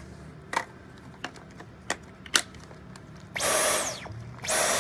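A few light plastic clicks as a vacuum attachment is fitted. Then a Dyson V11 cordless stick vacuum runs in two short bursts about a second apart. Its motor whine falls away each time the trigger is let go.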